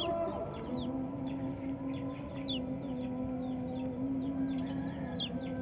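Pleci (white-eye) chirping in short, high notes that sweep downward, a few a second, over a steady low drone.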